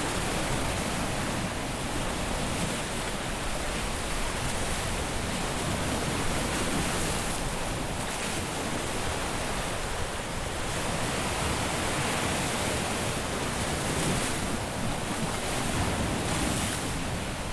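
Caribbean surf washing onto a beach: a steady rush of breaking waves that swells and eases every few seconds.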